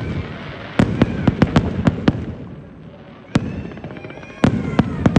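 Fireworks going off: a rapid series of sharp aerial bangs, about seven in the first two seconds after a short pause, then a single bang and another quick cluster near the end, with crackling rumble between them.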